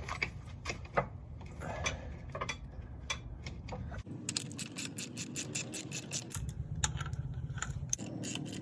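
Hand ratchet clicking while running in the bolts of a new dogbone transmission mount, with scattered metal clicks and knocks first, then a run of quick, even clicks about five a second from about halfway through.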